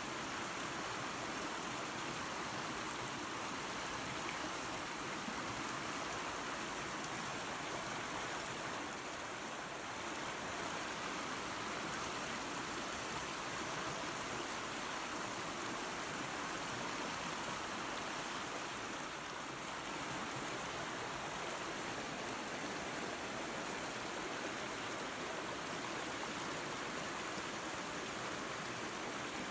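Small waterfall and creek running water, a steady rushing noise.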